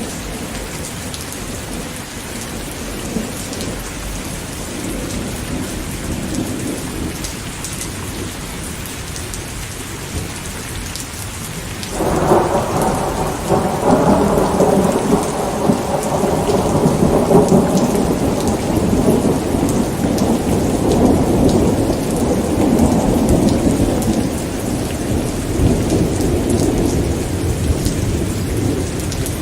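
Steady rain, with a long roll of thunder that breaks in suddenly about halfway through and rumbles on, slowly easing toward the end.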